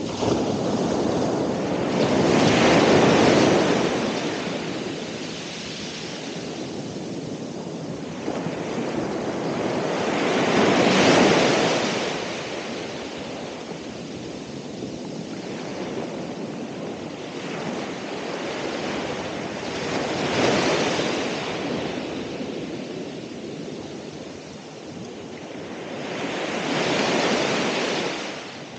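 Ocean waves breaking on the shore, four in turn about seven to nine seconds apart, each rising to a crash and washing back, with wind on the microphone beneath.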